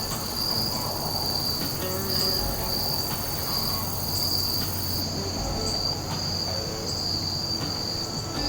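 Insect chorus chirring steadily as one continuous high-pitched drone.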